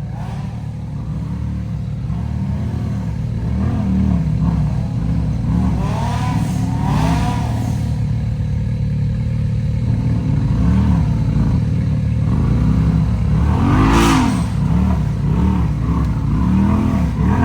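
Side-by-side UTV engine revving up and falling back over and over, roughly once a second, as it crawls over rocks. A short, sharp noise cuts through about three-quarters of the way in.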